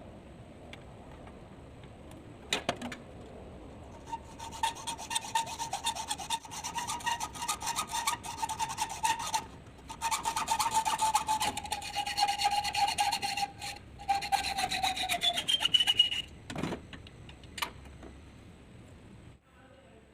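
Metal being worked with a rasping, scraping tool: a dense run of rapid strokes with a steady whine over it that sags in pitch and stops near the end, broken by two short pauses, followed by a couple of knocks.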